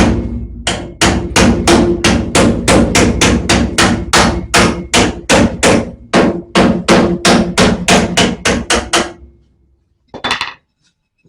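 Hammer blows on heated sheet-steel patch panel, about three strikes a second in a steady run with a short pause near the start, stopping about nine seconds in: the metal is being hammered into shape while still hot from the torch.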